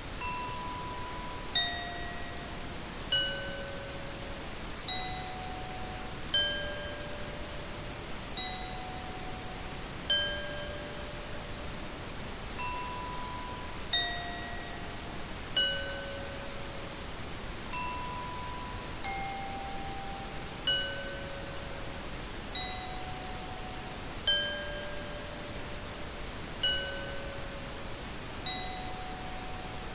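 A slow run of single struck bell-like tones, one about every second and a half, each at a different pitch and fading within about a second, over a steady hiss.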